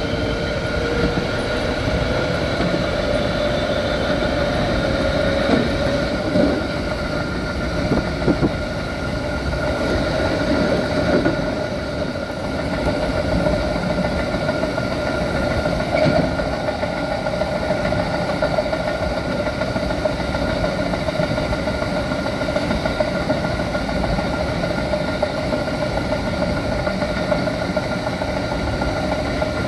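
Interior running sound of a Keikyu 1500 series field-chopper-controlled electric train. The motor whine rises in pitch over the first few seconds as the train picks up speed, then it runs steadily with wheel and rail noise and a few louder thumps.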